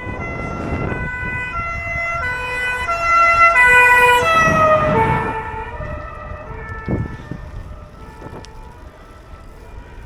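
Fire brigade vehicle's two-tone siren alternating high and low, growing loud as it approaches. About four seconds in, the pitch drops as it passes, then it fades away.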